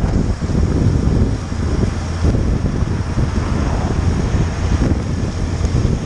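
Wind buffeting the microphone on a moving motorcycle, a loud steady low rumble, with the motorcycle's engine and road noise mixed in.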